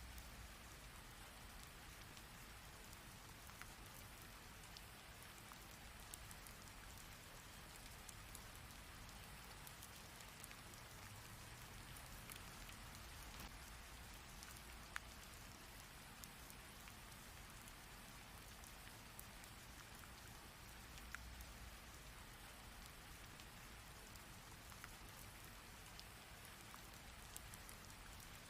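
Steady rain falling and pattering on a surface, an even hiss with scattered sharper drop hits and a low rumble underneath.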